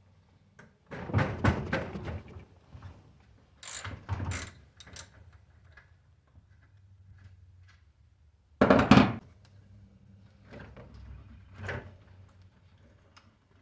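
Mechanical handling noises from working on a bicycle: a series of clunks and rattles, the loudest a sharp clunk about nine seconds in, over a faint steady hum.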